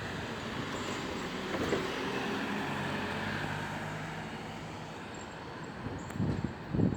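A passing vehicle: a steady engine hum that swells about two seconds in and then fades. Near the end, uneven low rumbling bursts set in.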